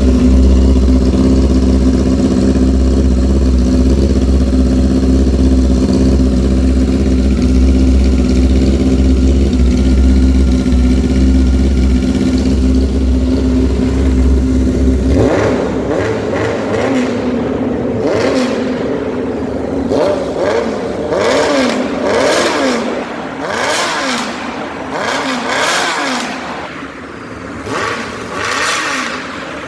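A 1997 Honda CBR600F3's inline-four engine, heard through its exhaust, running at a steady idle, then from about halfway through revved in repeated throttle blips, the pitch rising and falling again and again.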